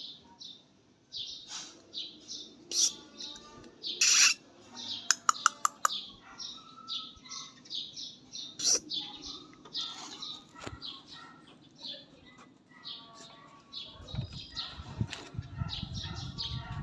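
Small birds chirping over and over in short, high chirps. A quick run of sharp clicks comes about five seconds in, and a low rumble near the end.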